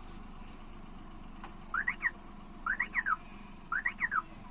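Car's electronic reversing alarm chirping about once a second, a quick rising-and-falling electronic tone, which begins about two seconds in as reverse gear is engaged. The car's engine idles faintly underneath.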